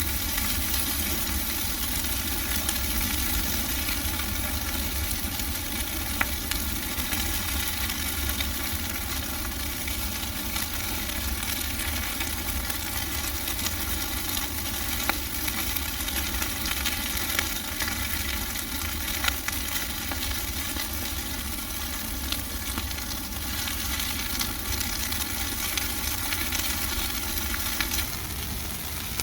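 Bonfire of dry Christmas trees burning, a steady hiss with frequent small crackles and pops.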